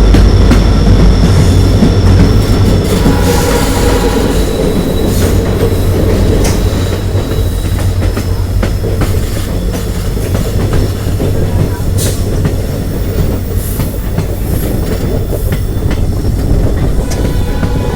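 Passenger train running on the rails: a steady loud rumble with irregular wheel clicks over rail joints. A faint high wheel squeal in the first few seconds fades out.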